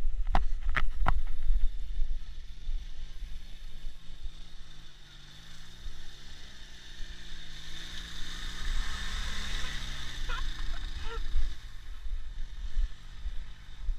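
Ural motorcycle's flat-twin engine labouring through a deep muddy puddle, its pitch rising and falling as the rider works the throttle, with water spraying up midway. It fades away about two seconds before the end, over a heavy rumble of wind on the microphone and a few sharp knocks at the very start.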